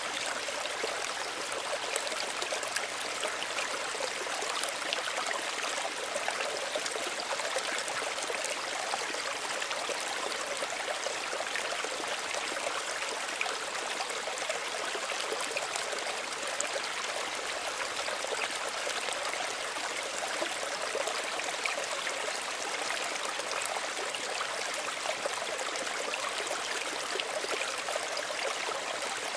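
Small stream of water running and trickling steadily, a continuous splashing babble with no pauses.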